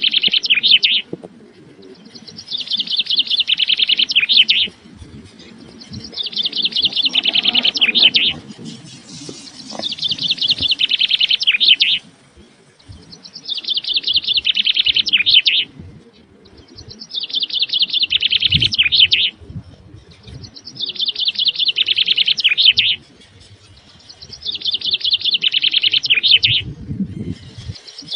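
A bird singing the same fast, high-pitched trilling phrase over and over, each lasting a couple of seconds and repeating about every four seconds.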